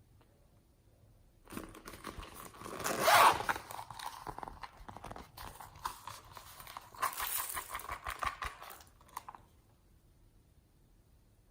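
Crinkling, tearing and crackling handling noise. It starts about a second and a half in, is loudest around three seconds, picks up again around seven to eight seconds, and stops after about nine seconds.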